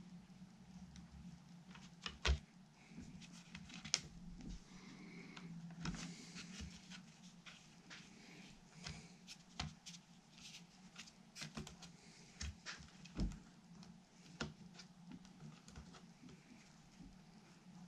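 Scattered small clicks and taps of tools and parts being handled during guitar assembly, the sharpest about two, four and thirteen seconds in, over a faint steady hum.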